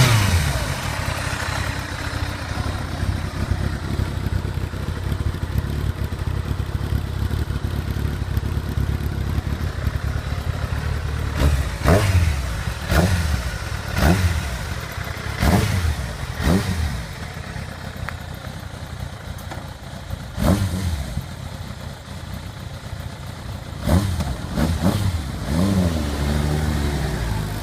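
Kawasaki ZZR1200's inline-four engine idling steadily, with short throttle blips that rev it up and let it fall back: a run of about five around the middle, one more a few seconds later, and three close together near the end.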